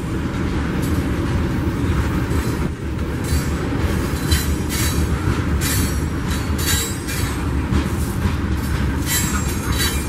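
Freight train of covered hopper cars rolling past with a steady low rumble of wheels on rail. Short high-pitched wheel squeals break in several times.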